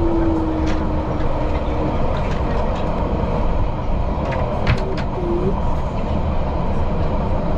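Passenger train running with a steady rumble, a few brief clicks about four to five seconds in, and a faint falling tone near the start.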